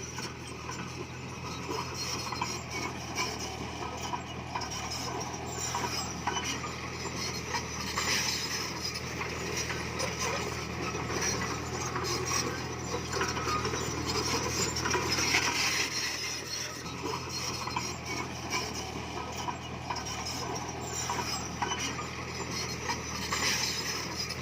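Komatsu bulldozer's diesel engine running steadily while its steel crawler tracks clank and rattle as it works pushing stone.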